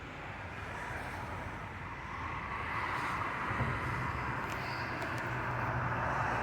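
A motor vehicle's engine running with road or tyre noise, a steady low hum that grows louder from about halfway through as it comes closer.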